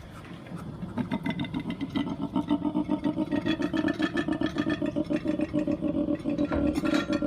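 An animal call made of rapid, even pulses with a clear pitch, starting about a second in and growing steadily louder.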